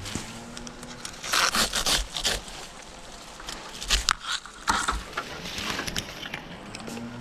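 Dry palm fronds scraping and crackling in a few irregular bursts, a cluster over about a second and then two sharper ones, as the palm is worked over during trimming.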